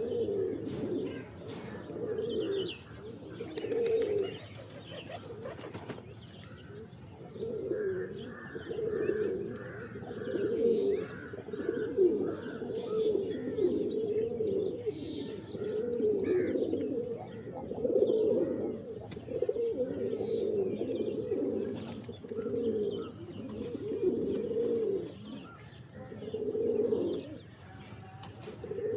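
Pigeons cooing over and over, low overlapping coos coming every second or two. A short run of higher-pitched chirps comes about eight seconds in.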